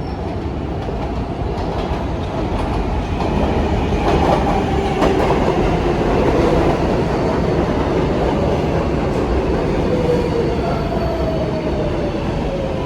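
R188 subway car running on the rails, heard from on board: a steady rumble of wheels on track with scattered clicks, growing a little louder about four seconds in, and a faint motor whine gliding down in pitch.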